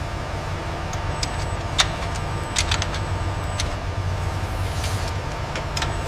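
Factory ambience: a steady low hum with scattered short clicks and light taps, the sharpest about two seconds in and a quick cluster a little later.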